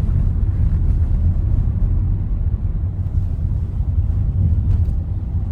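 A car being driven on a road test, giving a steady low rumble of road and tyre noise with no distinct knocks.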